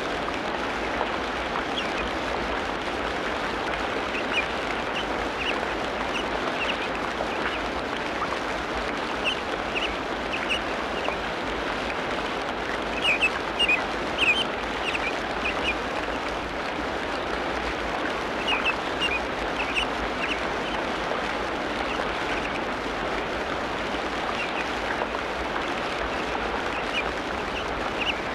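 Tropical rainforest ambience: a steady dense hiss-like background with short bird chirps scattered through it, bunching up about halfway and again about two-thirds of the way through.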